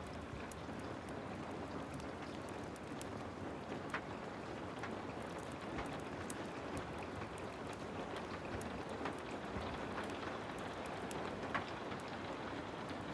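Heavy rain falling steadily, with many scattered sharp ticks and crackles through it.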